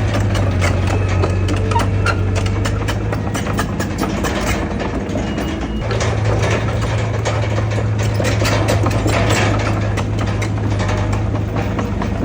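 Heavy diesel engine of earthmoving machinery running under load, with a constant run of rapid metallic clanks and knocks. The engine hum drops away about four seconds in and comes back strongly a second and a half later.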